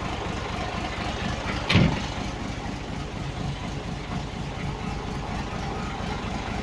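Scania 112 truck's rebuilt diesel engine idling steadily while it builds up air pressure, with one brief loud bump about two seconds in.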